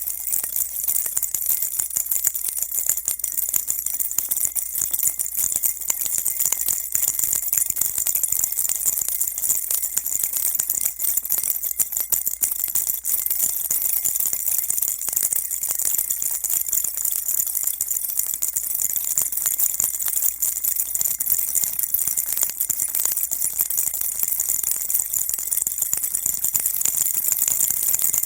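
Baby rattle shaken continuously: a dense, fast, unbroken stream of high-pitched rattling at a steady level, with no pauses.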